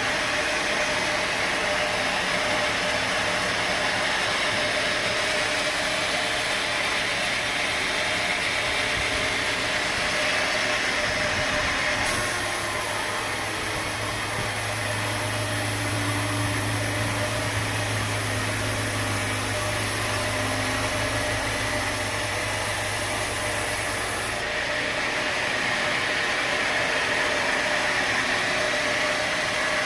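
Sawmill machinery running steadily. From about twelve seconds in, a deeper hum joins for some twelve seconds, then cuts off suddenly.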